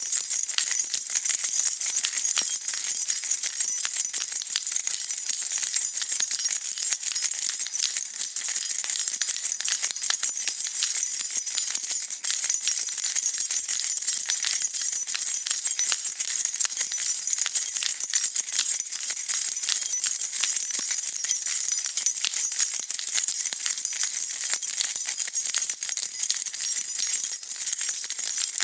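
A bunch of metal keys jingling continuously, a steady dense shower of small bright clinks without pause.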